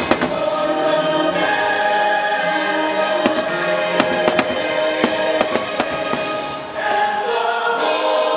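Choral show music with a held chord, punctuated by the sharp bangs of aerial fireworks shells bursting: a couple right at the start and a cluster of them about three to six seconds in.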